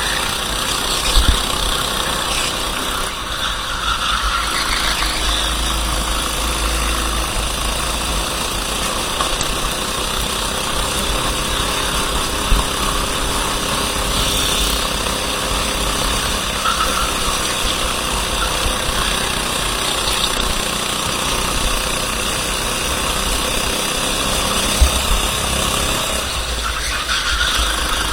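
Racing kart engine running during a race heat, its pitch rising and falling, under a steady wash of noise.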